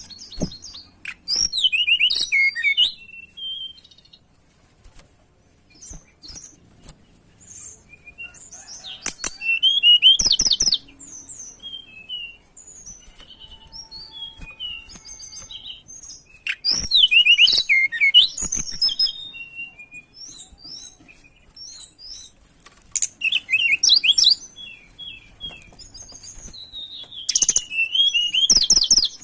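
Tledekan gunung birdsong used as a lure track: loud bursts of rapid, high twittering phrases about every six seconds, with softer short chirps between the bursts.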